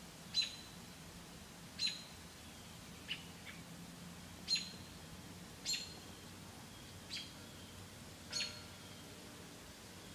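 A bird chirping: short, high single chirps repeated about every second and a half, with a pair of lower, fainter chirps about three seconds in.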